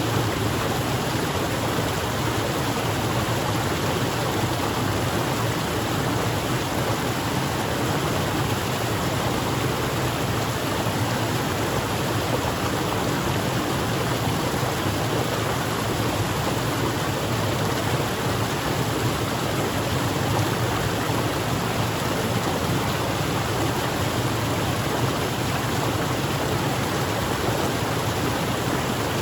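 Waterfall: a steady rush of falling water with no let-up.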